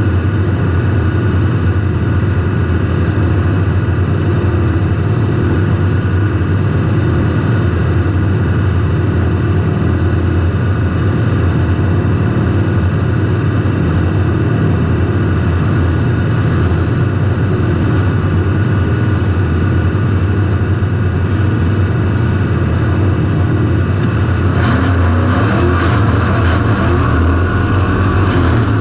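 Car engine running steadily under load, heard from a camera inside the car. From about four seconds before the end, a run of sharp knocks and rattles joins it.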